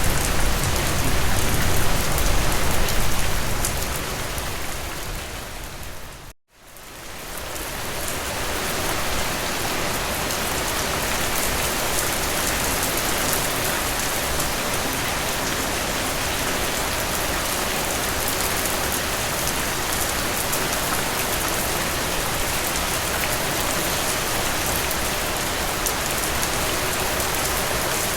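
Heavy rain falling, a steady dense hiss. About six seconds in it fades out to a moment of silence and fades back in, then runs on evenly.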